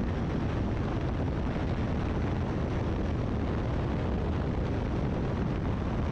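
Steady engine drone mixed with wind rush in the open cockpit of a Great Lakes biplane in flight.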